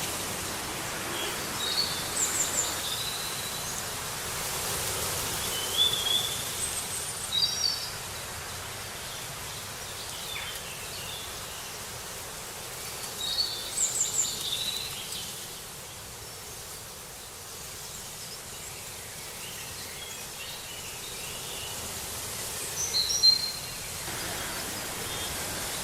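Birds chirping in short bursts of calls every few seconds over a steady outdoor background hiss.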